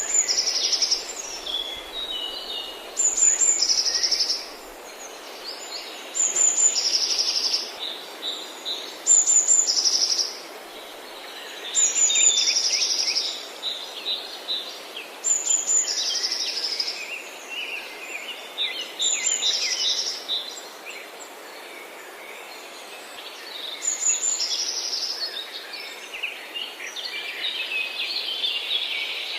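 Forest birds singing: one bird repeats a short song phrase about every three to four seconds, a high note followed by a trill, while other birds chirp around it over a faint steady hiss.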